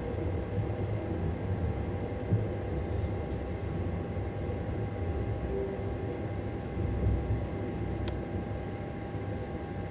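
Lastochka (Siemens Desiro RUS) electric train running on the rails: a steady low rumble with a constant whine, and a few wheel knocks at the rail joints. A sharp click comes near the end.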